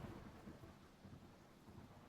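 The last of a thunderclap fading away in the first half second, then near silence.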